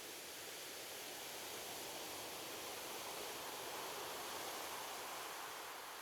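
Gentle sea waves washing ashore: a soft, steady hiss of surf that swells to a peak about four seconds in and then starts to ebb.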